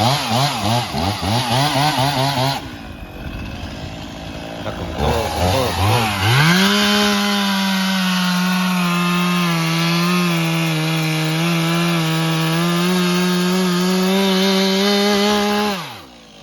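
Chainsaw revved in quick blips, easing off for a few seconds, then held at steady full throttle for about nine seconds while cutting through wood, before dropping off sharply near the end.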